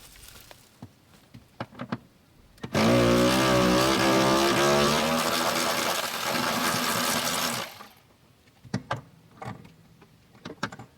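Handheld power tool running for about five seconds, its pitch wavering at first and then steady, before cutting off sharply; it is likely undoing the bench seat's floor-mount bolts. Light clicks and knocks of handling come before and after.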